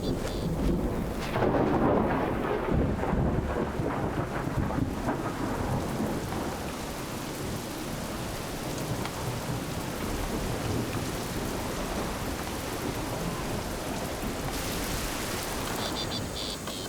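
Thunderstorm: a loud rumble of thunder about a second in, then steady rain.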